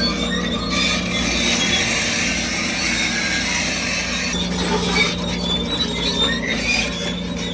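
Crawler bulldozer running steadily while its steel tracks squeal and screech, the squeal loudest in the first half.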